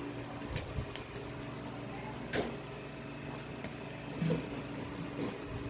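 Eating sounds: chewing on a grilled pork chop with a few short, sharp mouth smacks or clicks, over a steady background hum.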